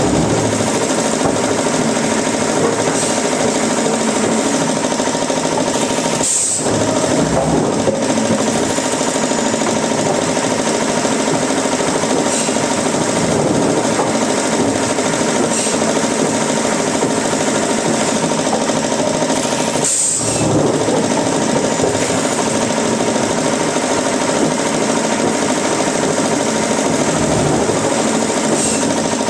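Woodworking machinery running steadily under load with a dense grinding noise and a steady whine, briefly dipping twice, about six and twenty seconds in.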